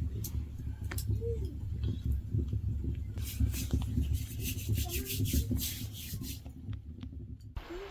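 Quick, rhythmic scraping strokes, about five a second, for roughly three seconds in the middle, over a steady low rumble.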